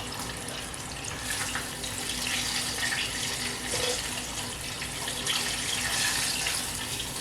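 Hot oil in a deep fryer sizzling steadily, with a few faint clicks.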